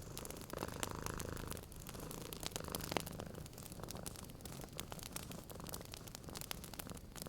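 A cat purring in a low, steady rumble, most plainly in the first half, under the irregular sharp pops and clicks of a crackling wood fire.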